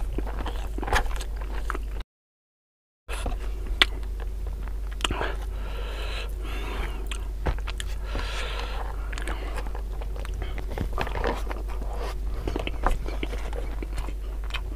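Close-miked chewing and mouth sounds of a person eating by hand: wet smacks, lip noises and frequent small clicks, over a steady low hum. The sound drops out to silence for about a second near the start.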